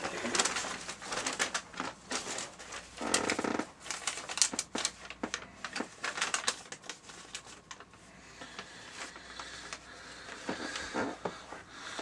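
Paper bag puppets being handled and shifted, with irregular crinkling, rustling and small clicks of the paper.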